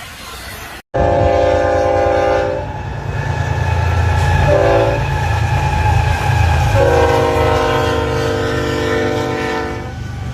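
Locomotive air horn sounding a long blast, a short blast, then a long blast, over the low rumble of a passing train.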